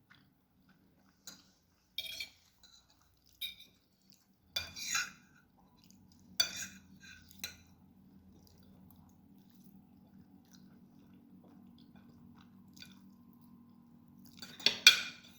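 Eating lagmon noodles: utensils clicking and clinking against a dish every second or so, with soft chewing between. A louder clatter comes near the end.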